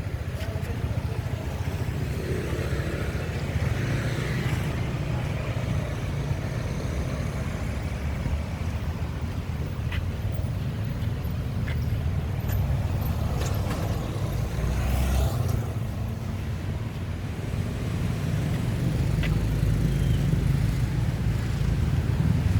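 Steady low engine rumble, growing a little louder near the end.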